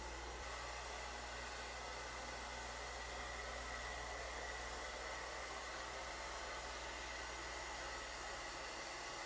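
ILIFE V5s Max robot vacuum running, a steady whirring hiss from its suction motor with a thin high whine.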